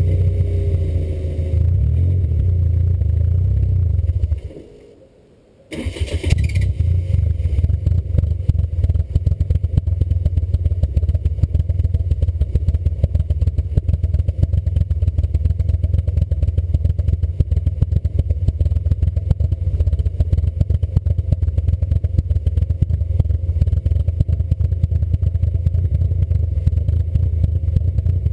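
Cammed 2.0 ABA four-cylinder of an MK3 VW Jetta running through a Magnaflow exhaust on a cold start. It goes quiet about four seconds in, fires again with a sharp burst a second and a half later, and then runs on at a fast, even lumpy pulse.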